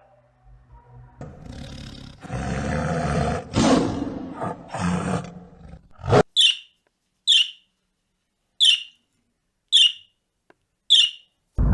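A large animal roaring for about five seconds, a rough, loud call in several surges. It cuts off and is followed by five short, high-pitched calls about a second apart, each falling in pitch.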